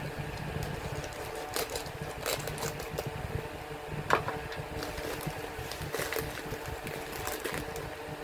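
A steady mechanical hum, like a small motor running, with scattered clicks and knocks and one sharper knock about four seconds in.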